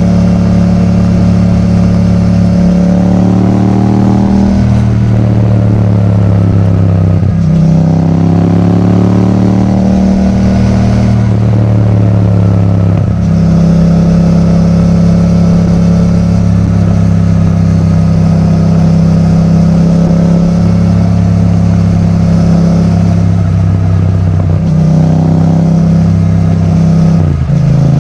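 Yamaha MT-07's parallel-twin engine through an Akrapovič titanium exhaust, running under way with a loud, steady note. The pitch climbs in stretches and drops sharply for a moment about four times, as it does at gear changes.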